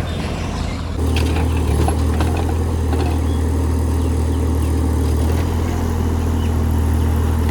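Engine running steadily, getting louder about a second in, with a slight change in its note about two-thirds of the way through.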